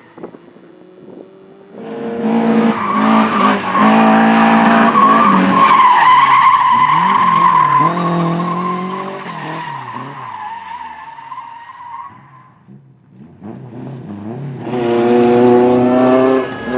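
Race car engine revving hard and changing gear as it passes, with tyres squealing and skidding; the sound fades away. About fifteen seconds in, another car's engine comes up loud.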